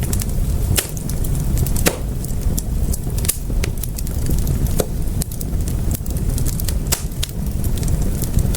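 Wood fire in a fireplace crackling, with frequent irregular sharp pops and snaps over a steady low rumble of flames.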